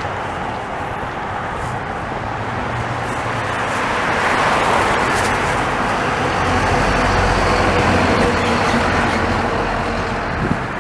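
Road traffic: a motor vehicle passes, its engine hum and tyre noise swelling over several seconds and then easing off.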